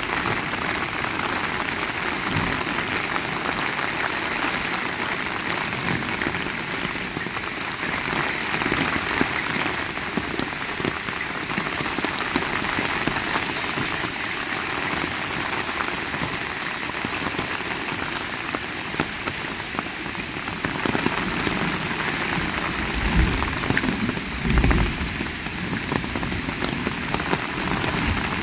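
Heavy rain falling steadily, a dense even hiss, with a couple of low thuds near the end.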